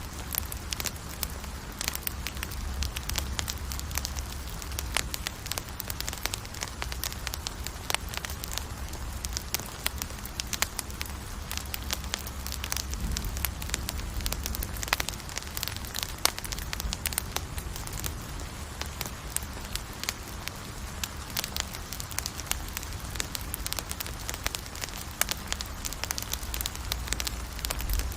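Wood campfire burning and crackling, with frequent irregular sharp pops over a steady hiss and low rumble.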